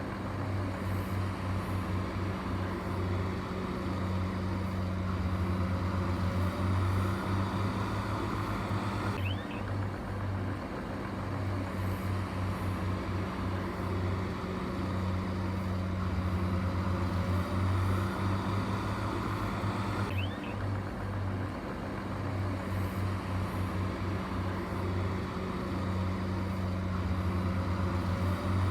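Diesel engine of heavy earthmoving machinery running steadily with a low drone. The same stretch of sound repeats about every eleven seconds, as a looped track.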